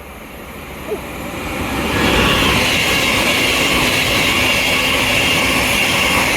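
Electric train running through the station at speed: the rushing noise of wheels on rail builds over the first two seconds, then stays loud and steady.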